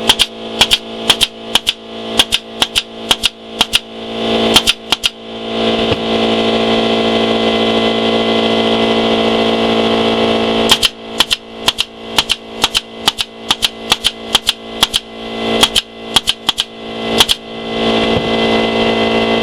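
Staple gun driving staples into wood in quick runs of about two to three shots a second. About five seconds in, a steady machine hum takes over for several seconds, then the stapling starts again and runs until a second hum near the end.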